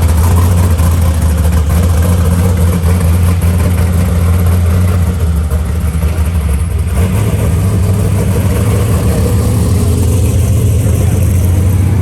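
Drag-race car engine idling steadily and loudly.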